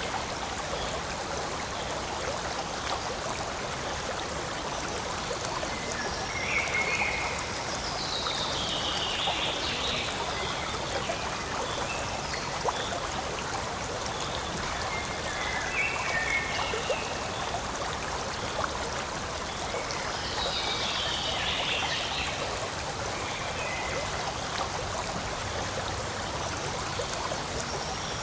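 Small forest stream flowing and trickling steadily, with short high calls rising over the water noise about four times.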